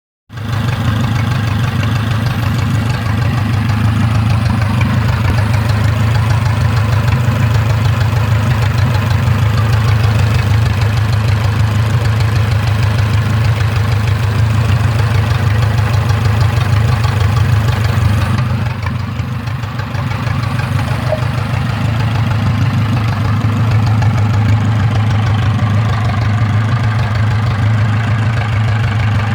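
L-12 engine running steadily, with a brief drop in level about two-thirds of the way through before it settles back.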